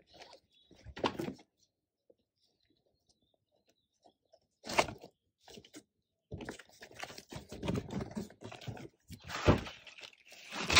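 Ceiling fan packaging and parts being handled during unboxing: a few soft thunks, a sharp knock about five seconds in, then a steady stretch of rustling and handling noise through the second half.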